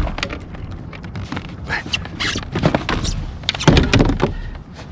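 Irregular knocks and rustling handling noise from a kayak angler working his rod and reel while fighting a large lake trout, with a few short vocal sounds, louder about two seconds in and again near four seconds.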